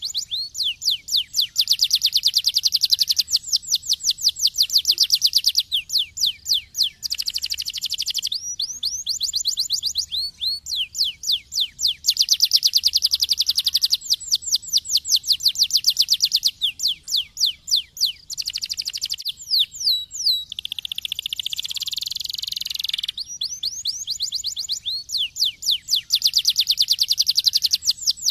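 Domestic canary singing a long song of rapid trills, each phrase a fast run of the same falling note repeated many times, switching to a new trill every few seconds with brief pauses.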